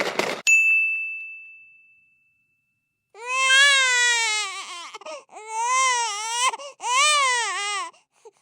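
A short rushing noise, then a single bell-like ding that rings out and fades over about a second and a half, followed by a baby crying in three long wavering wails.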